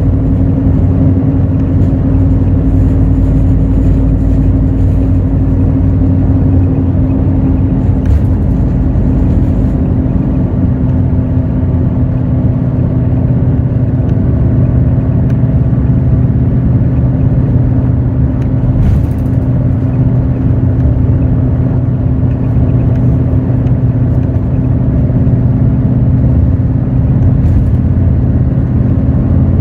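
Hino J08E-VD diesel engine of a Hino RN8J bus running steadily under way, heard from inside the bus, with a constant engine drone.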